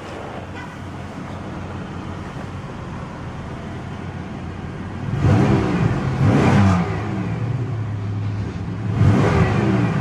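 1998 Pontiac Grand Prix GT's 3800 Series II V6 idling steadily, then revved in short bursts about five seconds in and again near the end, the revs rising and falling back to idle.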